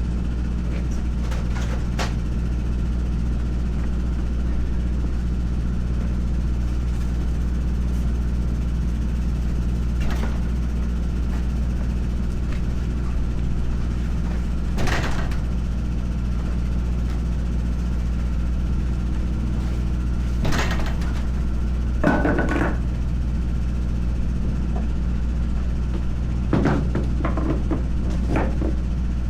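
An engine running steadily at idle, with a handful of separate sharp knocks and clanks scattered through, the sounds of tyre-changing work on a truck.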